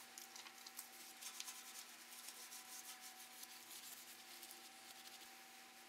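Faint scrubbing on a steel tractor wheel rim being washed with degreaser soap: a dense run of small scratchy rubbing strokes that thins out toward the end.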